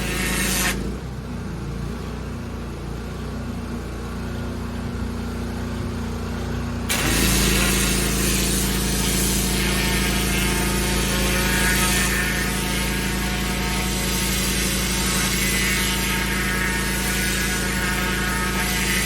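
Pressure washer running, with a steady engine hum and the hiss of the high-pressure jet on paving. The spray cuts out about a second in and comes back on about seven seconds in, when the machine's hum grows louder as it takes up the load again.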